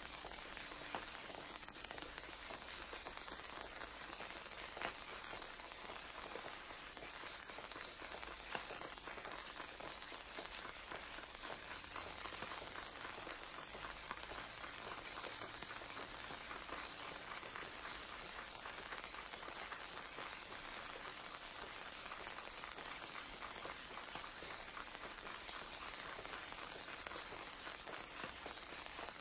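Shredded cabbage, vegetables and chicken sizzling steadily as they stir-fry in a nonstick wok, a dense fine crackle, with a few sharp knocks during the first nine seconds.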